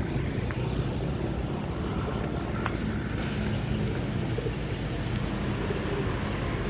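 Steady low outdoor rumble with a faint hum and a few small clicks.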